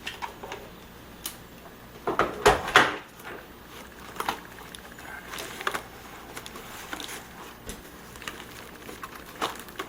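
Handling and unpacking of a drone and its parts: scattered clicks, light knocks and rustling, with a louder flurry of knocks and rustles about two to three seconds in.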